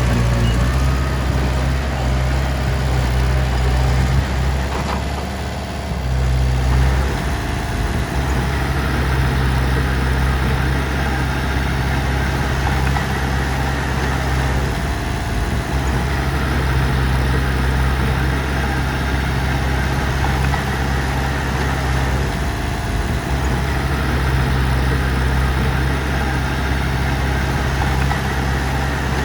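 Heavy diesel engine of the recovery machinery running steadily, its note changing briefly a few times.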